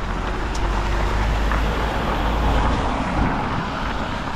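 Road traffic noise: a vehicle passing, its tyre and engine noise swelling to a peak about halfway through and then fading, over a low rumble that stops partway in.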